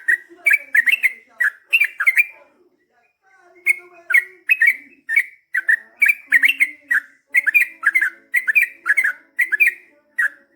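Yellow-vented bulbul (trucukan) singing a long, fast run of short chirping notes, with a brief pause about three seconds in.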